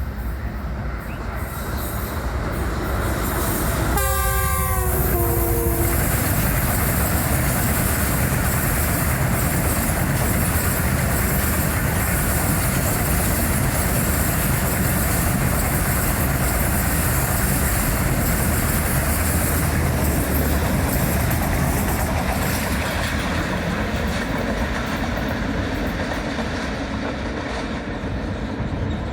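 A diesel-electric locomotive's horn sounds about four seconds in for roughly two seconds, its pitch dropping as it goes by. Then an express train passes at speed: a long, steady, loud rumble and rush of wheels on rail and coaches going by, easing off near the end.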